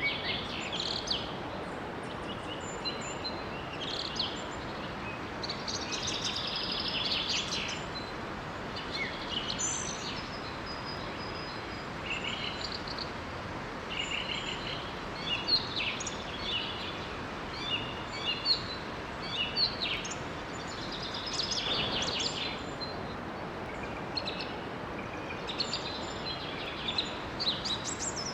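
Several songbirds chirping and trilling in many short phrases over a steady rush of water from a small forest waterfall.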